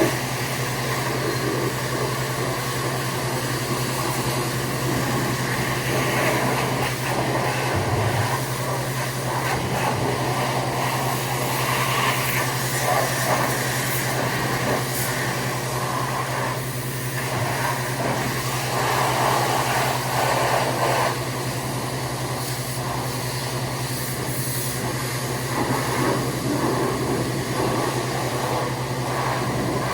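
Pressure washer running with a steady motor hum while its spray hisses against the truck's greasy frame and axle, the hiss swelling and fading as the wand moves.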